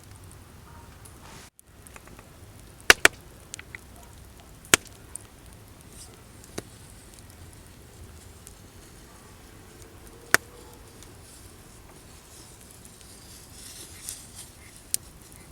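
Wood campfire burning with sharp, scattered pops and snaps from the wood: a quick pair about three seconds in, then single snaps every few seconds, over a faint steady hiss.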